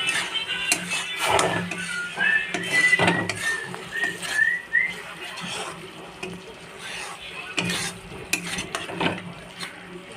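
Kitchen utensils clinking and scraping against a pot or dishes, in irregular knocks, busiest in the first half. A quick run of short, high, rising chirps comes about two to five seconds in.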